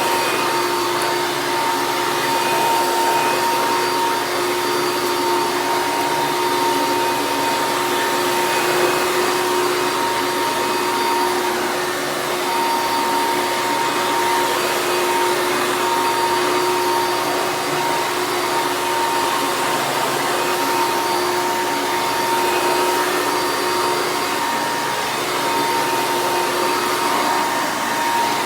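1999 Hoover Caddy Vac upright vacuum cleaner running steadily: a motor whine with a couple of steady pitched tones over the rush of air.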